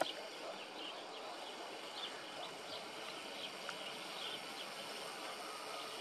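Outdoor ambience: a steady hiss with scattered short, high bird chirps every half second or so.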